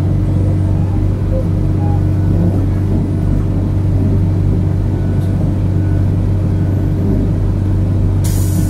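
Passenger train in motion, heard from inside the carriage: a steady loud rumble with a low hum from the running gear and engine. About eight seconds in a loud hiss starts suddenly.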